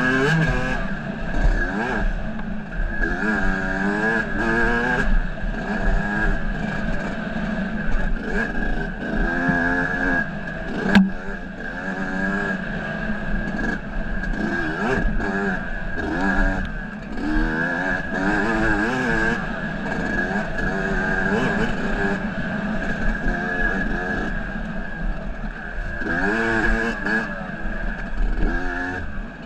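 Motorcycle engine on its first ride since it seized, its pitch climbing and dropping again and again as the throttle is worked and it changes gear on the trail. A single sharp click about eleven seconds in.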